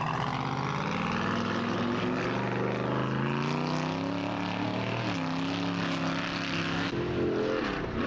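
Race vehicle engine revving hard under throttle, its pitch climbing over a few seconds, dipping briefly about halfway, then rising again before dropping near the end.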